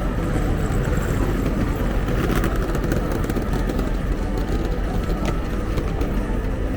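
Busy city street ambience: a steady rumble of traffic, with a few brief sharp clicks about two and a half seconds in and again near five seconds.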